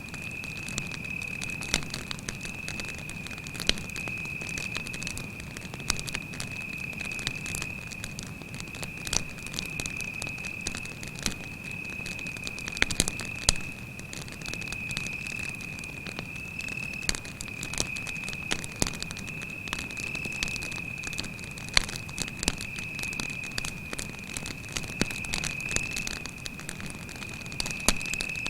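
Wood campfire crackling, with sharp pops scattered irregularly throughout, over a cricket's steady, unbroken high-pitched trill.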